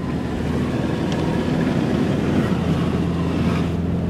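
Car engine running low and steady as the car wades through deep floodwater, with a continuous rush and splash of water against the body, heard from inside the cabin.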